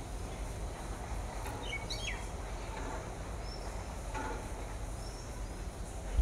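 Steady low background noise with a few faint, high bird chirps, one about two seconds in and a few short ones later.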